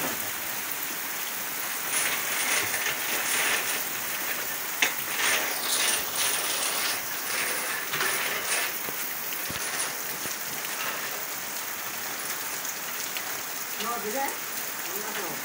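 Heavy rain pouring down: a steady hiss with a dense crackle of drops striking the ground and surfaces, and one sharp knock about five seconds in.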